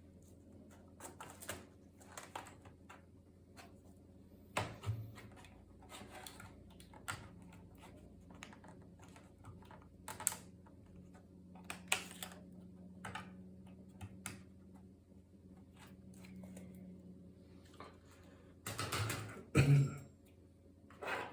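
Hands working on a laptop being taken apart: irregular small plastic clicks and taps, with a louder clatter of knocks near the end.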